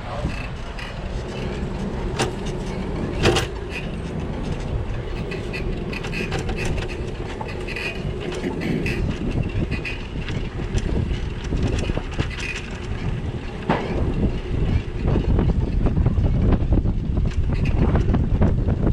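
Bicycle ride noise: steady road and wind rumble with frequent rattles and knocks from the bike over bumps, a sharp knock about three seconds in.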